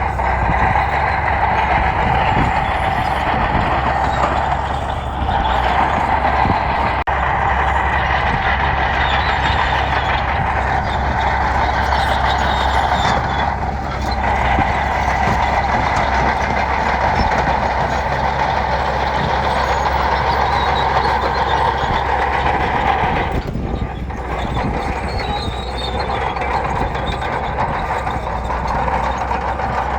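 Heavy diesel earthmoving machinery running steadily under load, easing off briefly three times, about a third of the way in, near the middle and about four-fifths of the way through.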